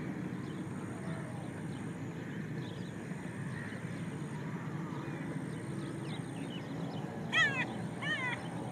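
Two short, harsh bird calls about a second apart near the end, cawing like a crow, over a steady low background noise with faint twittering.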